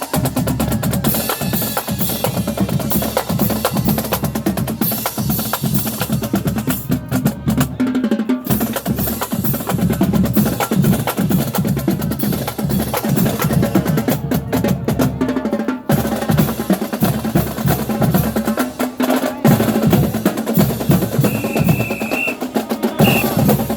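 Marching band drumline playing a fast cadence: rapid snare drum strikes and rolls over bass drums, with brief breaks in the snare and cymbal sound about a third and two-thirds of the way through.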